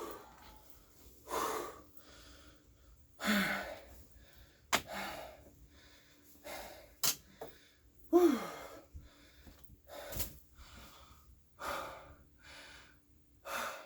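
A man breathing hard and out of breath: heavy breaths and gasps about once a second, with a short falling groan about eight seconds in.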